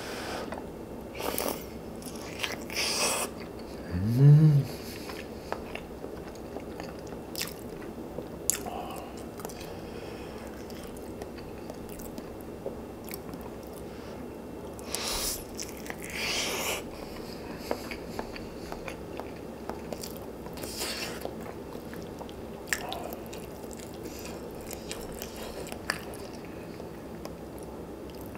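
Close-miked eating: chewing with scattered sharp crunchy bites, as of radish kimchi and pork bone soup being eaten. A short rising pitched sound about four seconds in is the loudest moment.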